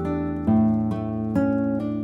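Background music: plucked acoustic guitar, with new chords struck every half second to second.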